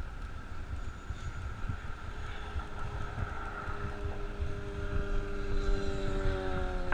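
Wind rushing over the microphone while riding a bicycle, with a motor vehicle's engine hum growing louder over the last few seconds and dipping slightly in pitch as it goes by.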